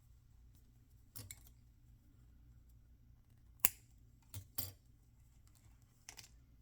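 Toy packaging being handled during unboxing: a handful of short, sharp clicks and crinkles. The sharpest comes about three and a half seconds in, with two more close together just after.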